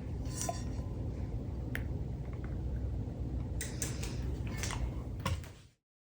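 Steady low room hum with a few faint clicks and rustles of handling, cutting off abruptly to silence near the end.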